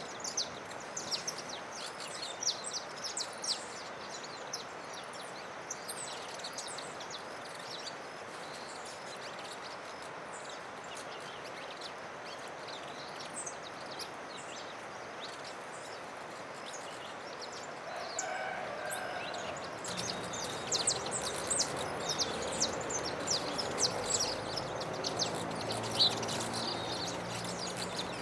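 Wild songbirds chirping and calling in the Atlantic Forest over a steady outdoor hiss: many quick high chirps at the start, fewer in the middle, and again thicker from about 20 seconds in. About 18 seconds in a lower, drawn-out call is heard.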